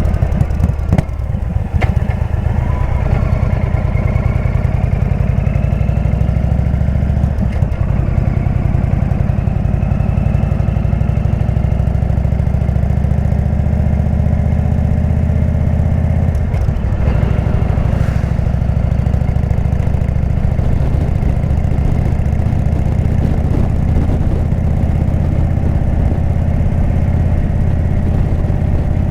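Indian V-twin motorcycle with a Jekill & Hyde exhaust running under way, its engine note climbing in pitch as it accelerates. The engine sound breaks briefly about a second in and again about sixteen seconds in, as at gear changes.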